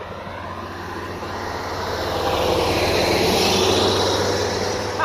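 A Traxxas Rustler VXL RC truck's brushless motor whining alongside a full-size truck's engine and tyres as the two accelerate in a drag race. The sound swells to a peak about three and a half seconds in, then fades as they pass.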